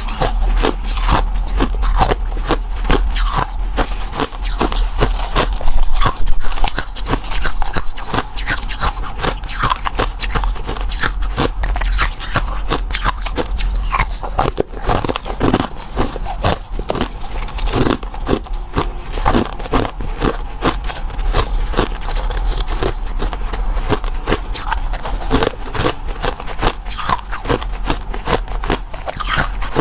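Close-up biting and crunching of food, a dense run of crisp crackles and chews throughout, over a steady low hum.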